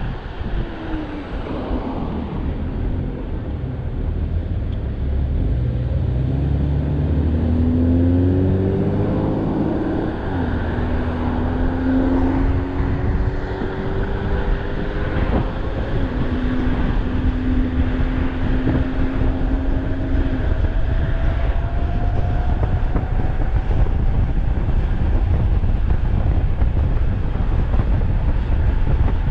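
Wind rushing over the microphone of a fast-moving electric bike, a steady low rumble. Over it a whining tone rises in pitch several seconds in, drops sharply about ten seconds in, holds steady, and a higher tone then climbs slowly.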